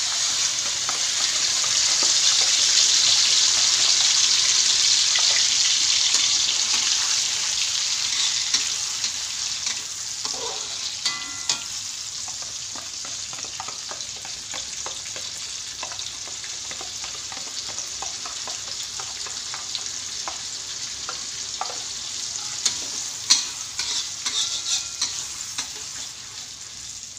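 Blended chili paste dropped into hot oil in a wok and frying with a loud sizzle that begins suddenly and slowly eases over the following seconds, while a metal spatula stirs and scrapes, clicking against the wok.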